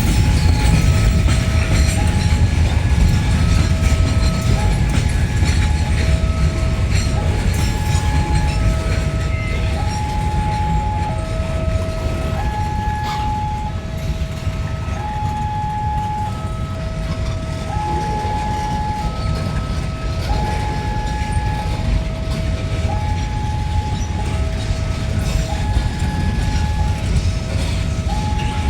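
A train rumbling past, with a two-tone electronic warning alarm alternating steadily between a lower and a higher tone, each held just under a second.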